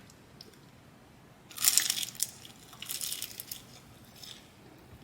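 Two bursts of crackly crunching, a crisp food bitten and chewed close to the microphone, with a smaller crunch near the end.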